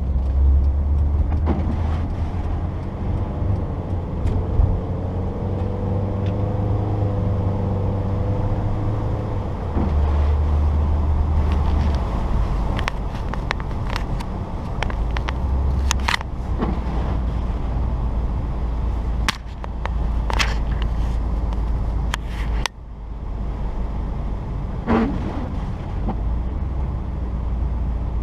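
Inside the cabin of a 1994 Saturn SL2 on the move in snow: the twin-cam four-cylinder engine and the road make a steady low rumble. A few sharp clicks and knocks come in the second half.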